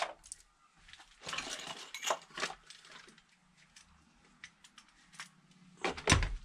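Metal hand tools clinking and clattering as they are handled and set down. A short rustle is followed by a couple of sharp clinks about two seconds in, and the loudest clank comes near the end.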